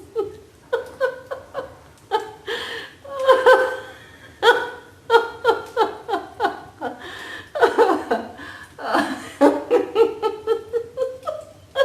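A person laughing in rapid runs of short "ha-ha" pulses with brief pauses between them: deliberate laughter-yoga laughing.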